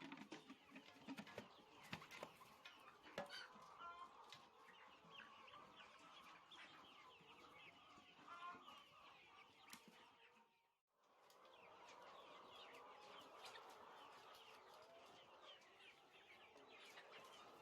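A flock of chickens in a poultry house, many birds peeping and clucking at once in a faint, continuous chatter, with a few small clicks. The sound drops out briefly about two-thirds of the way through.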